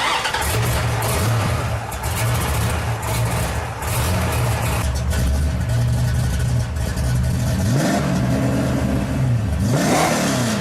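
V8 muscle car engine running loudly, revved up and back down twice near the end.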